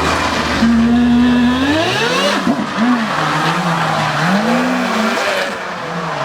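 A car engine being driven hard: it climbs in pitch about two seconds in, then rises and falls as the throttle comes on and off, over steady tyre and road noise.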